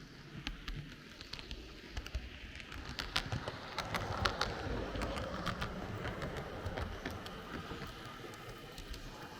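H0 scale model train running along the track: a steady rumble with irregular clicks from the wheels over the rails. It grows louder about three seconds in and eases off toward the end.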